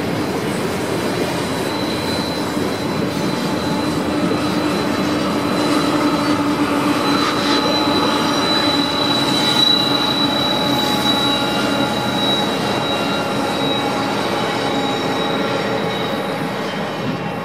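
A freight train's last cars and its rear BNSF diesel locomotives roll past at close range. Steel wheels rumble on the rail under a thin, high, steady wheel squeal, and the locomotive's engine is loudest midway. The sound dies down near the end as the train clears.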